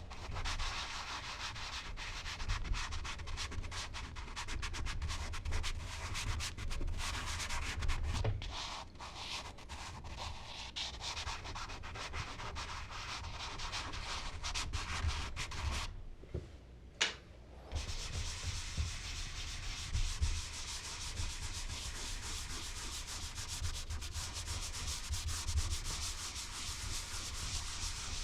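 Charcoal being rubbed and blended across smooth Bristol paper: a continuous dry rubbing, with a pause of about two seconds a little past halfway.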